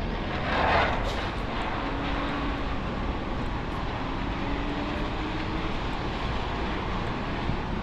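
Wet city street ambience: a steady hiss of traffic and rain, with a brief louder rush of noise just under a second in.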